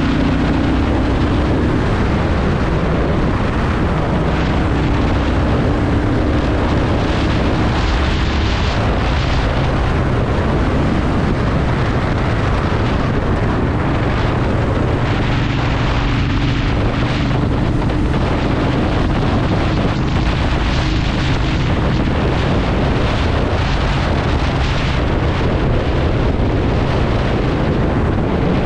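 Honda Shadow VT750's V-twin engine running underway, with its low pitch drifting up and down a little, and wind noise on the microphone.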